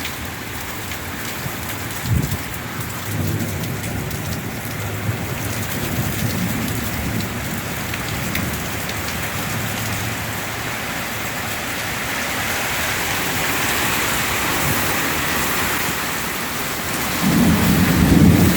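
Heavy rain pouring steadily in a summer thunderstorm, with a brief sharp knock about two seconds in and a deep rumble of thunder swelling near the end.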